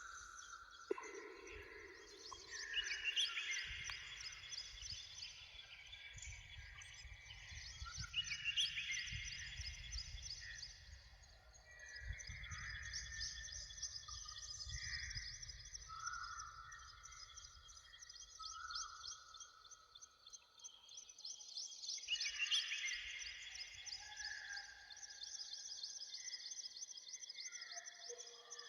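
Several songbirds singing at once: overlapping whistled phrases and fast high trills. A low rumble of wind comes and goes in gusts underneath.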